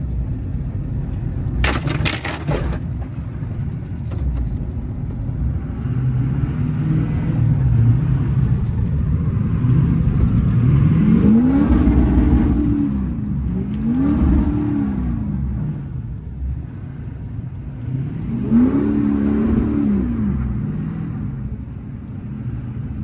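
Ford F-250's 6.0 Powerstroke V8 diesel running under load, revving up and back down several times, the biggest swells in the second half, with a faint high whistle climbing along with the revs. A short sharp clatter about two seconds in.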